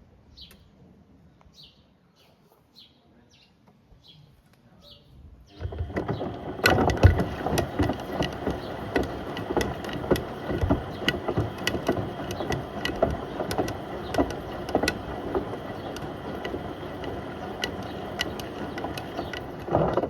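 Beko WM74135 washing machine drum turning with a toaster and kettle inside, which clatter and knock against the drum. It is quiet for the first five seconds or so, then a dense clatter of knocks starts about six seconds in and continues.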